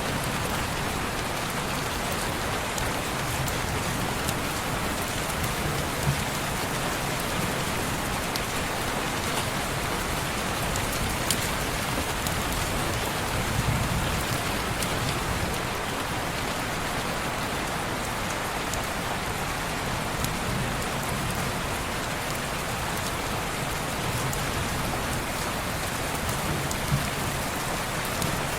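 Steady rain falling on a window, an even hiss with a few sharp ticks scattered through it.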